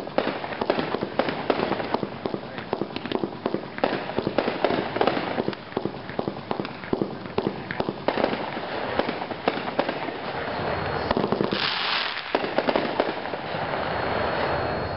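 Winda Curfew Breaker consumer fireworks cake firing a rapid volley of shots. A brief hissing rush comes about twelve seconds in, then a dense crackle of strobe effects.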